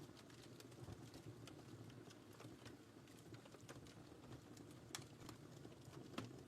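Wood fire burning in a fireplace: a soft, low rush of flames with scattered faint crackles, and two sharper pops about five and six seconds in.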